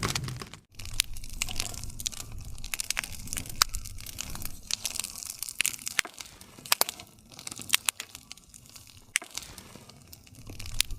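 Wood fire crackling: irregular sharp pops and snaps of burning wood over a faint low rumble of the flames. The sound drops out briefly just under a second in.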